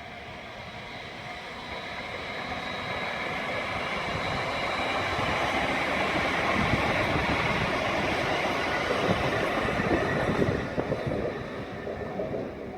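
Train passing through the station, growing steadily louder to a peak a little past halfway, with uneven clatter near its loudest, then beginning to fade near the end.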